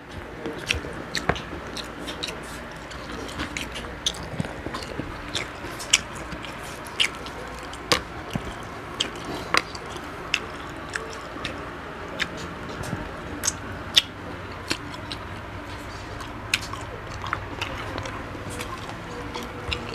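Close-miked chewing and crunching of crispy fried field frog, with irregular sharp crunches every second or so over the steady sounds of chewing.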